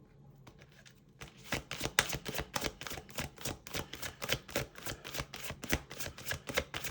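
Tarot cards being shuffled by hand: a quick, uneven run of papery clicks and flicks starting about a second in.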